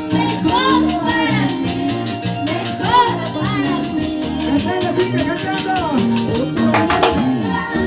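Live Latin American folk band music, a steady dance beat with bass and a gliding lead melody.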